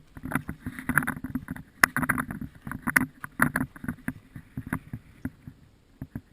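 Deep fresh snow crunching in a rapid, irregular run of short crunches, as children tramp and land in it.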